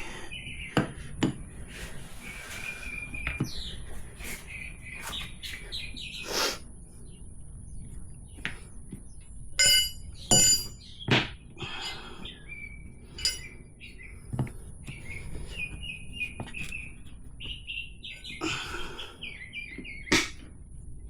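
Small birds chirping repeatedly, with scattered sharp metal clinks and knocks of tire irons working a motorcycle tire off its rim; the loudest are two ringing clanks about ten seconds in.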